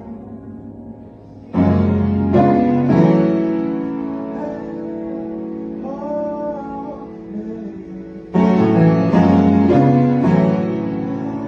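Piano music: loud sustained chords struck in groups of three, about two seconds in and again near the end, with quieter held notes ringing between them.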